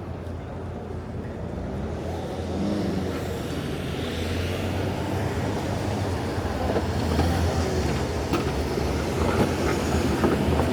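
City street traffic: a heavy vehicle's engine running with a low, steady drone over general road noise, gradually growing louder, with a few light clicks near the end.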